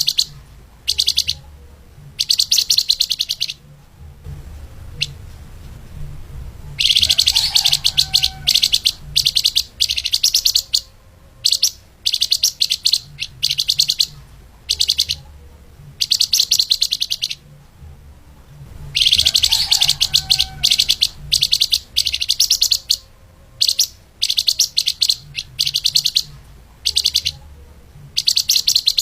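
Flamboyan (lemahan) songbird singing a fast, tightly packed song: repeated bursts of rapid high chirping with short pauses between them, over a faint low hum.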